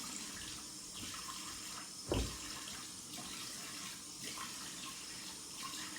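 Cold water running steadily from a bathroom tap into a sink as the face is rinsed after a shave, with a brief louder splash about two seconds in.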